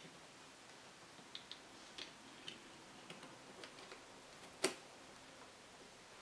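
Scattered light clicks and taps of small metal parts and tools being handled on a workbench, with one louder knock about four and a half seconds in.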